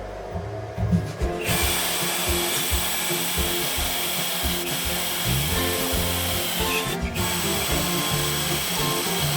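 A power tool running steadily with a hissing, whirring noise, starting about a second and a half in and cutting out briefly near seven seconds, over background music.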